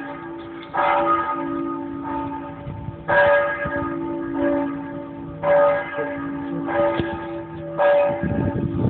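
Church bells ringing, several strikes at uneven intervals with long overlapping hum tones. A low rushing noise swells in near the end.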